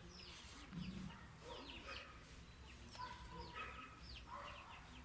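Faint bird chirping: many short, quickly falling chirps, scattered irregularly, over a low steady hum.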